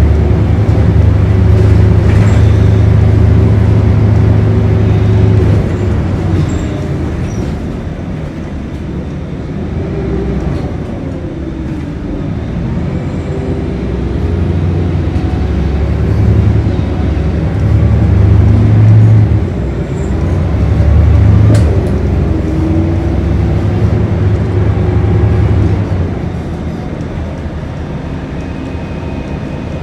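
Scania L113CRB bus's 11-litre six-cylinder diesel engine heard from on board, pulling hard and easing off in turns as the bus drives, its note rising and falling; it settles to quieter running near the end.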